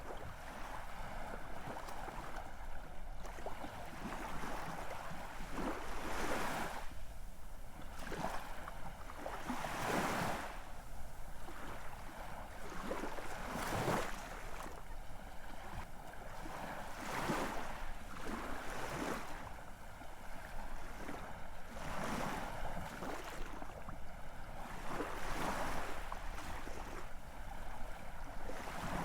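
Ocean waves breaking and washing in, swelling and falling back every few seconds.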